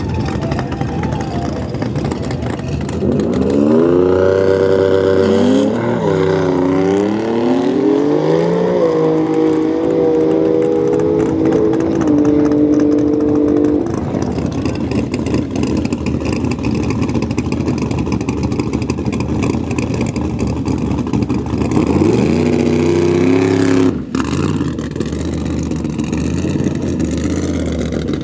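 Drag racing car's high-power engine at full throttle, its pitch climbing, dropping at gear changes and climbing again as it accelerates down the strip. A second engine climbs in pitch near the end and is cut off suddenly.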